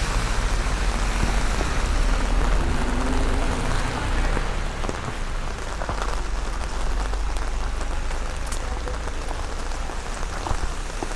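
Heavy rain falling, with close drops pattering on a large umbrella overhead, over a steady low rumble.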